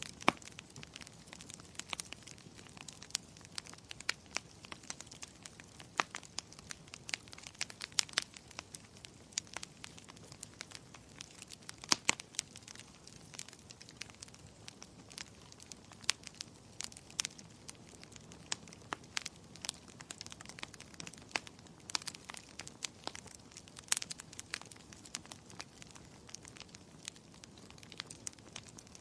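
Fire crackling in a fireplace: an irregular run of sharp pops and snaps, a few much louder than the rest, over a soft low hiss.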